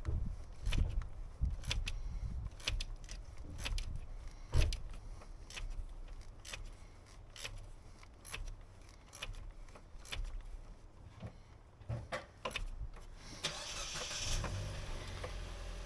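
Irregular small clicks, taps and knocks from handling the oil filter housing cap and tools under the hood. Near the end comes a brief hiss, followed by a steady low hum.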